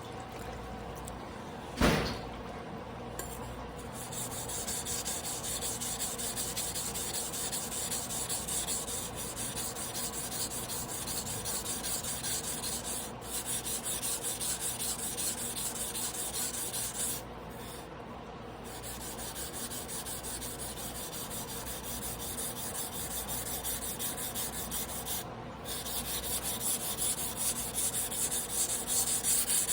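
Damascus carbon-steel sashimi knife blade being ground by hand on a wet whetstone: steady back-and-forth scraping strokes with a few short pauses, as the rusted, misshapen blade is reworked. A sharp knock comes about two seconds in, before the grinding picks up.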